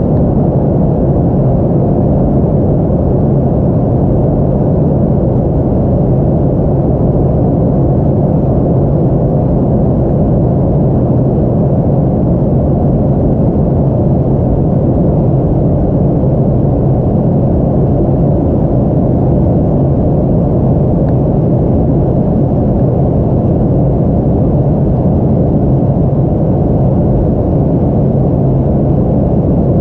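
Aircraft cabin noise on approach: a steady, low roar of engines and airflow with an even hum underneath, unchanging throughout.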